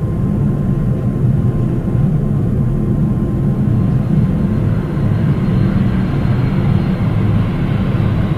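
Steady, loud low rumble of an Airbus A350 jet airliner's engines and airflow, with a faint high whine joining about halfway through.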